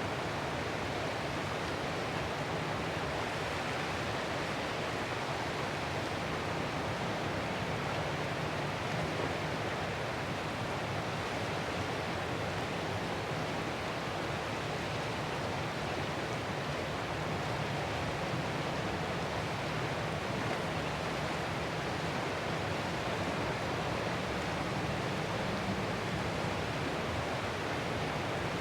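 Ocean surf making a steady, even rushing noise, with no single wave break standing out.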